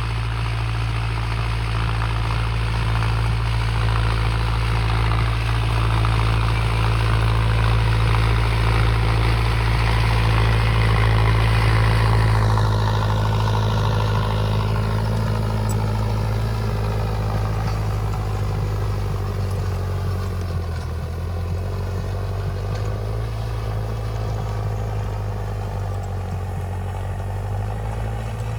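Tractor diesel engine running steadily with a deep hum. It grows slightly louder up to about halfway, then eases off gradually.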